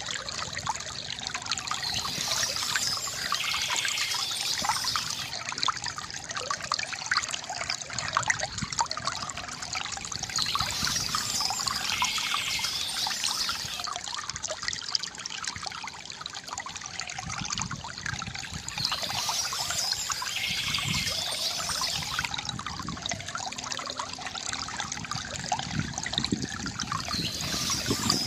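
Water trickling and gurgling steadily from a bamboo fountain. A brief higher chirping, birds, comes back about every eight seconds.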